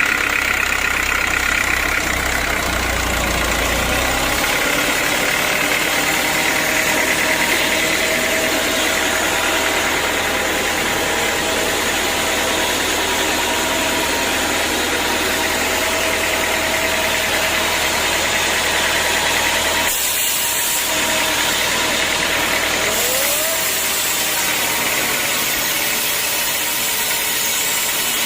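Sawmill machinery running steadily: a continuous motor and saw noise, with a short dip about twenty seconds in.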